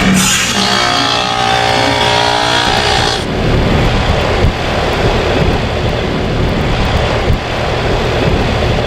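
Payne PH13 heat pump coming out of defrost: a sudden loud hissing rush of refrigerant, with the compressor giving a harsh droning tone that sounds terrible, for about three seconds. The hiss and drone cut off abruptly and the unit runs on with a steady rushing noise.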